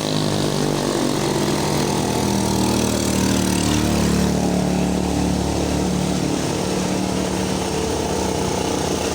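A vehicle engine running at a fairly steady speed.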